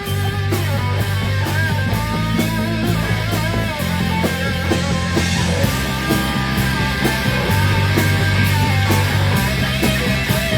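Rock band playing live with no vocals: guitar over a bass line that changes note every second or two, with a steady drum beat.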